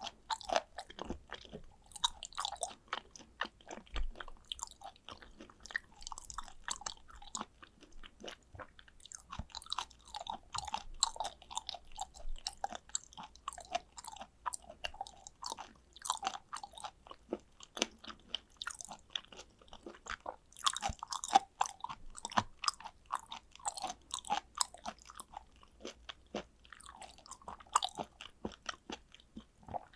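Close-miked chewing of raw tuna sashimi: a continuous run of small mouth clicks, with a few louder ones about two-thirds of the way through.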